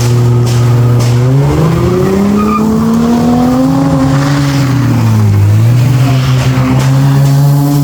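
A V10 engine, steady for a moment and then revved in two slow swells, its pitch climbing and falling back each time.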